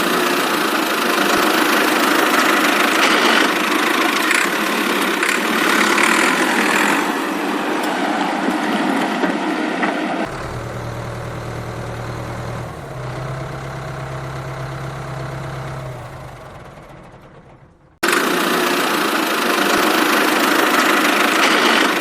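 Small motor of a miniature DIY tractor running steadily. About ten seconds in the sound changes to a quieter, lower hum, fades away, then cuts back in loud shortly before the end.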